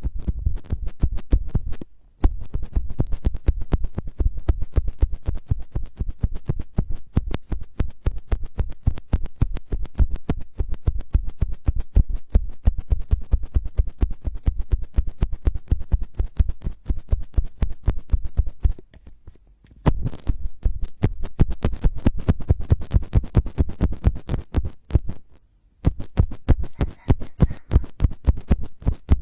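Fast, dense scratching strokes close to the microphone, an ASMR trigger, with brief stops about two seconds in, near nineteen seconds and near twenty-six seconds.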